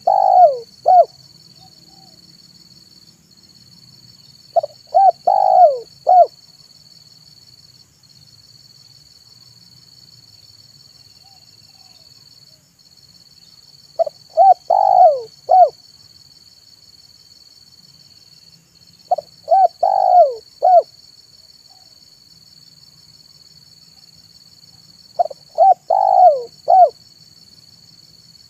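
Spotted dove (tekukur) cooing its song: the end of one phrase about a second in, then four more phrases several seconds apart. Each phrase is a few short clipped notes around one longer coo that falls in pitch.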